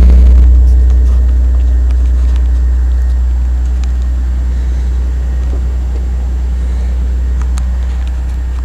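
Engine idling after a cold start, a strong steady low hum that slowly grows quieter as the fast idle of the still-engaged automatic choke settles.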